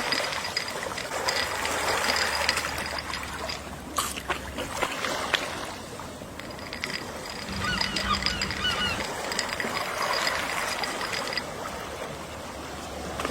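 Gentle ocean waves washing steadily, with a short run of seagull calls about halfway through.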